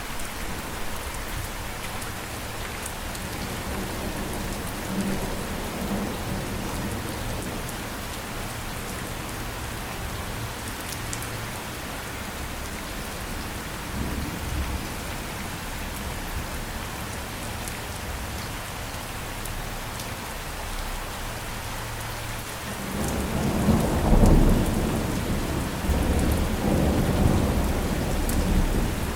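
Steady rain falling, with a long roll of thunder that swells up about three-quarters of the way through and rumbles on nearly to the end.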